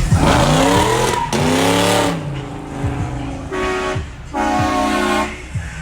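A car engine revving up and falling back twice, then a car horn honking twice, first briefly and then for about a second.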